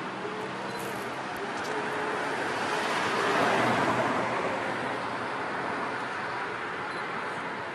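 A vehicle passing: its road noise swells to a peak about three and a half seconds in, then fades.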